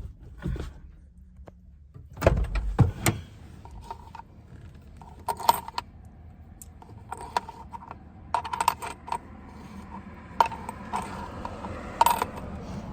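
Irregular light clinks and knocks, some with a short ring. A cluster of louder knocks comes about two to three seconds in.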